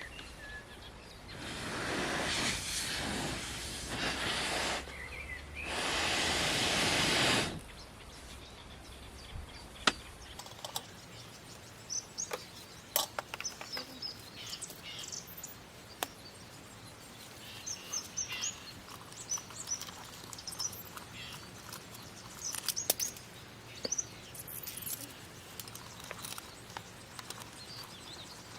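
Birds chirping in short high calls, scattered through the second half, with a few sharp clicks among them. Earlier come two loud stretches of rushing noise, each a few seconds long.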